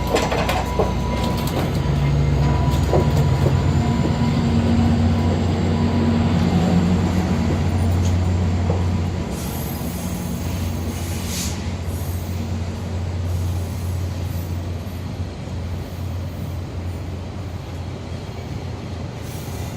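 Diesel passenger train running by: a steady low engine drone and rumble of the cars, with short high-pitched wheel squeals about halfway through and again near the end.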